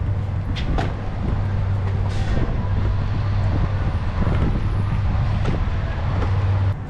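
Motor vehicle running: a steady low hum with road or traffic noise and a few faint clicks.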